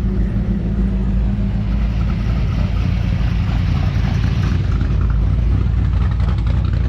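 Car engine running steadily, its sound sitting mostly low in pitch.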